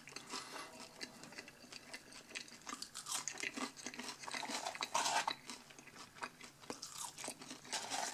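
Close-up chewing of crispy curly fries, irregular soft crunches, with fingers brushing and rustling inside the cardboard fry carton.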